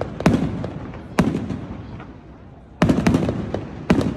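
Fireworks exploding overhead: about four sharp bangs, roughly a second apart, each followed by a rumbling echo that fades, with smaller cracks in between.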